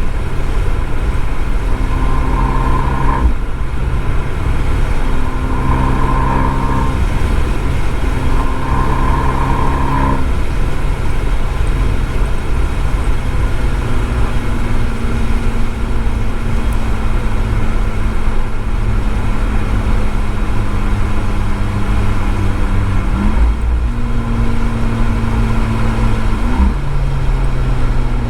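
Abarth 595 Esseesse's turbocharged 1.4-litre four-cylinder engine and Akrapovič exhaust, heard at speed on a wet track. The engine note holds nearly steady for long stretches, with a few breaks and short pitch steps, over constant road and spray noise.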